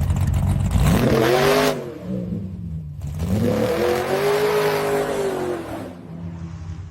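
Car engine revved twice: a quick rise in pitch that cuts off, then a longer rev that climbs, holds and falls back toward idle.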